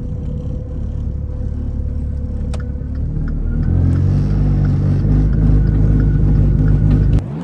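Turbocharged car engine running, heard from outside the car, growing louder about four seconds in, then dropping off sharply near the end.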